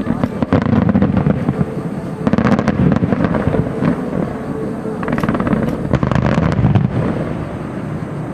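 Aerial fireworks bursting in rapid volleys, a dense crackling of many small reports over a deep rumble, coming in three loud surges about two seconds each.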